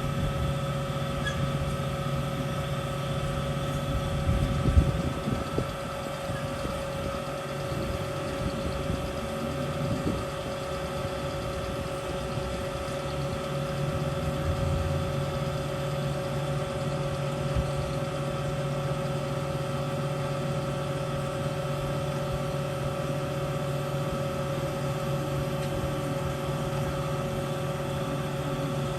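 Mega BS-360SA horizontal band saw running with a steady machine hum as it finishes its cutting cycle, with a brief clunk about five seconds in.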